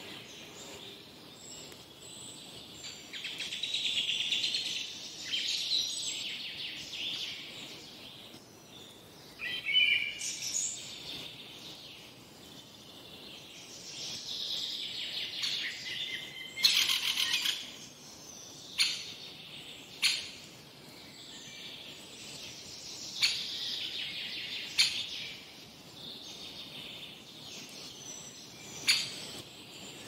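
Several wild birds chirping and singing together, with trills overlapping throughout and a handful of short, sharp calls standing out in the second half.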